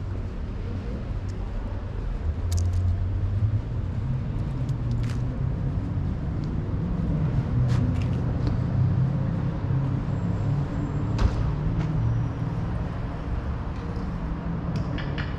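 City street ambience: a steady low rumble of road traffic with scattered light clicks and knocks.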